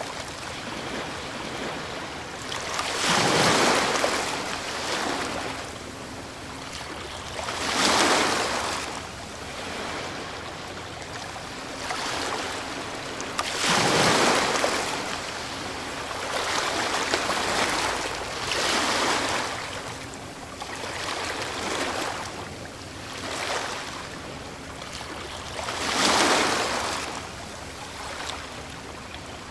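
Ocean waves breaking on a shore: several breakers a few seconds apart, each a rush of surf that swells and fades, over a steady wash of water.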